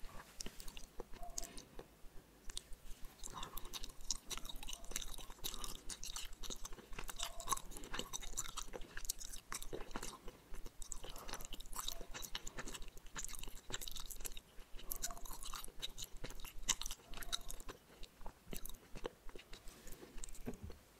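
Close-miked ASMR chewing of soft gummy candy: a dense run of wet, sticky mouth clicks and ticks, with no speech.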